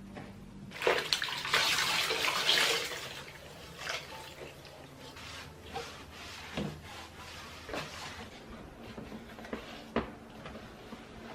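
Water running from a tap for about two seconds, then scattered light knocks and clinks of things being handled.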